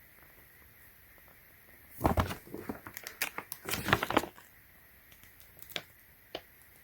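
Paper pages of an instruction manual crinkling and rustling as they are handled and turned, in a burst of about two seconds starting about two seconds in, followed by a few faint ticks.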